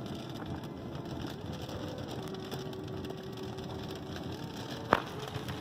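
Steady road noise inside a moving car's cabin, with a single sharp click about five seconds in.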